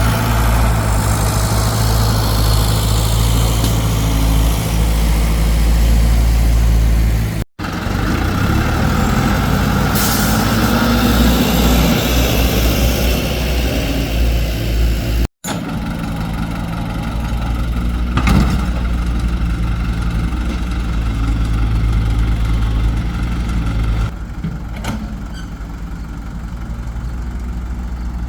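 Excavator's diesel engine running steadily, with a low hum and a broad mechanical noise over it. The sound breaks off abruptly twice for a split second, once about a quarter of the way in and once about halfway.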